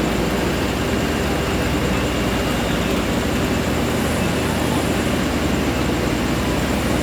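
Diesel engines of road-paving machines running steadily, a continuous low machine noise.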